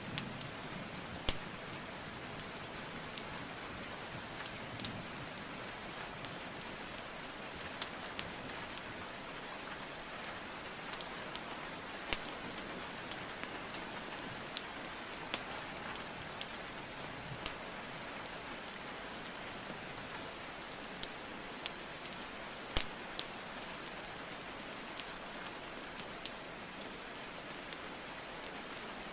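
Steady rain hiss mixed with a burning wood fire, whose sharp crackles and pops come at uneven intervals, every second or two.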